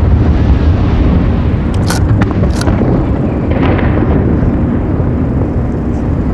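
Aerial fireworks bursting, with booms running together into a continuous loud rumble and a few sharp crackling pops about two seconds in.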